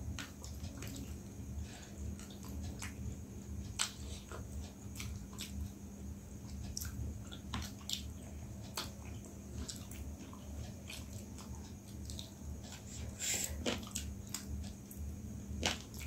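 Two people biting and chewing chicken wings close to the microphone, with irregular sharp clicks and small smacks of mouths and meat coming off the bone, over a steady low hum.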